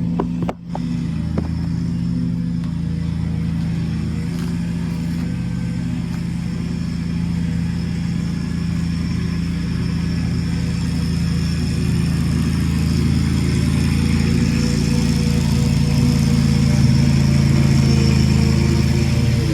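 Petrol lawnmower engine running steadily, growing a little louder toward the end.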